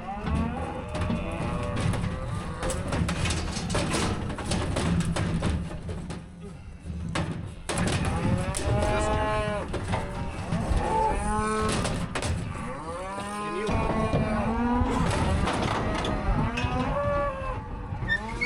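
Cattle bawling over and over, many calls overlapping and rising and falling in pitch, with scattered knocks.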